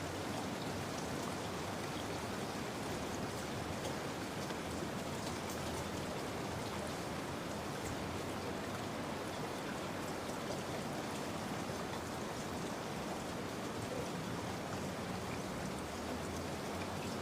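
Steady rain falling on a surface, with the fine patter of individual drops.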